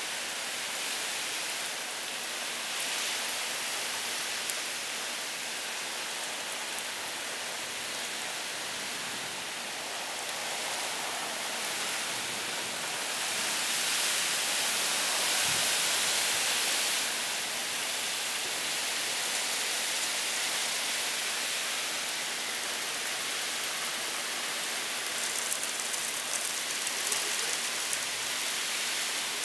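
Heavy rain in a cold-front downpour, a steady hiss that swells louder for a few seconds around the middle, with sharper pattering of drops near the end.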